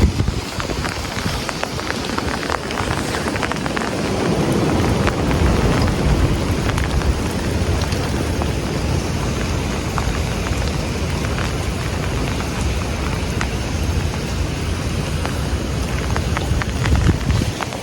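Heavy wind-driven rain falling steadily, with many sharp ticks of drops striking the phone and wind rumbling on the microphone.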